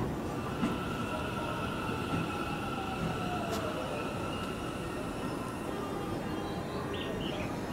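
Electric train at a station platform: a steady hum with a whine that falls in pitch about two to three seconds in, and a few short high blips near the end.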